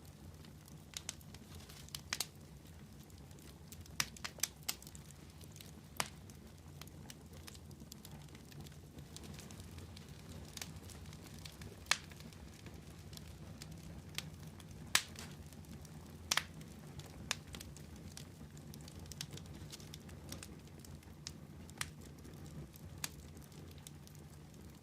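Wood fire crackling: irregular sharp pops, a few every couple of seconds, over a steady low rumble.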